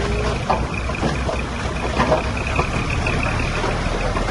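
Diesel engines of heavy earthmoving machinery running steadily, with a thin pulsing high tone throughout and a few sharp knocks.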